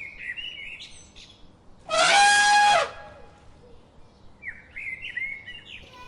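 Small birds chirping, broken about two seconds in by one loud, level-pitched animal call lasting about a second.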